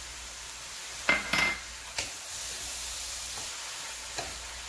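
Cauliflower fried rice with shrimp sizzling in a pan, the burner just switched off. A few short clinks and knocks of a utensil against a dish or the pan about a second in, with a lighter tick again near the end.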